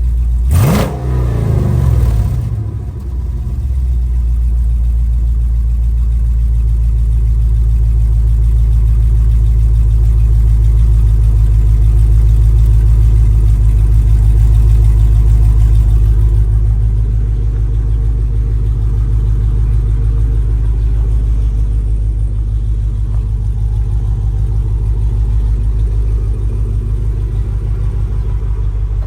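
A 392 Hemi V8 swapped into a 2005 Dodge Ram, blipped once about half a second in and then settling back to a steady idle.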